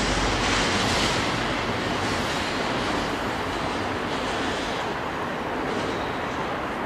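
Steady rushing outdoor noise at trackside, with wind on the microphone; no locomotive engine note or horn stands out.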